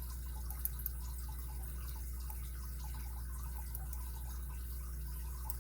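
Faint small clicks and ticks of a lock pick and tension tool working the pins in a Kryptonite padlock's six-pin core, over a steady low hum.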